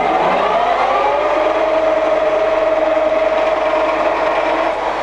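Microweily TY22100 centre lathe's headstock and spindle running up to about 860 rpm: a gear whine that rises in pitch over the first second or so, then holds steady. The seller calls this headstock a bit noisy.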